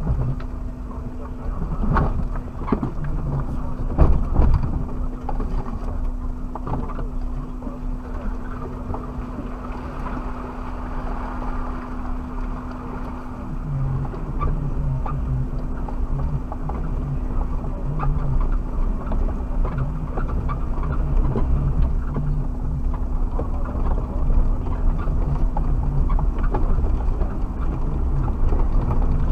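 Suzuki Jimny's engine running with a steady hum, heard from inside the cabin, with knocks and rattles from the body and suspension over rough off-road ground, the loudest about four seconds in.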